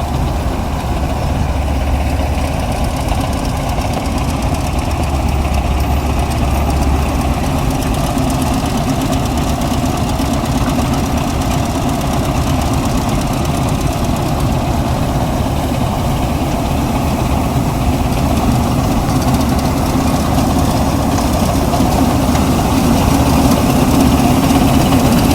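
Diesel engine of farm machinery running steadily, growing a little louder near the end.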